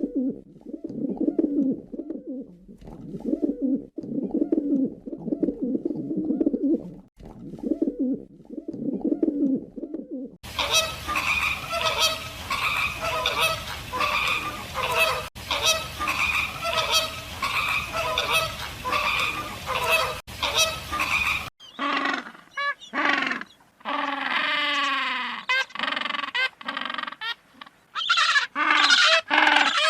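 A run of recorded animal calls in three sections, changing about ten and about twenty-one seconds in: first low calls repeated about once a second, then many overlapping higher calls over a steady hiss, then single calls that fall in pitch.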